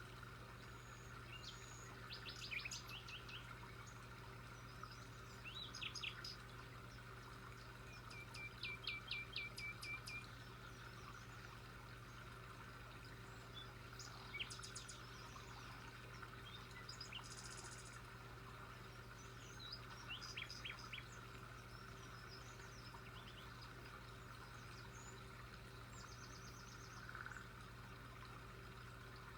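Songbirds chirping in short, scattered bouts, one a rapid trill of repeated notes, over a steady faint hiss and low hum.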